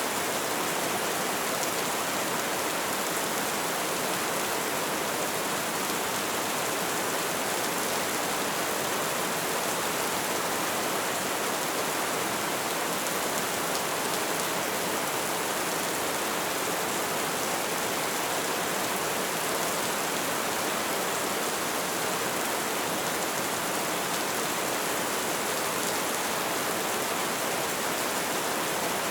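Light rain falling steadily, an even hiss of many small drops with no single drop standing out.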